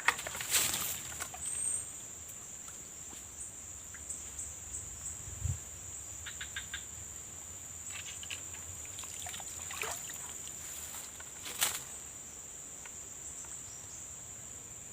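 Steady high-pitched shrilling of insects in the swamp, with a few scattered short clicks and knocks, the loudest shortly after the start and about three-quarters of the way through.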